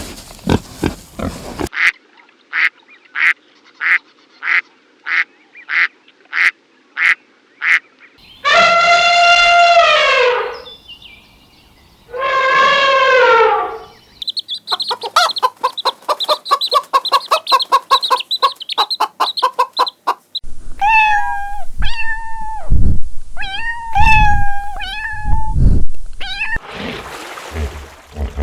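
A run of different farm animal calls, one clip after another. First comes a string of short, evenly spaced calls, then two long wavering cries that fall in pitch, then a fast chatter, and finally a series of honking calls.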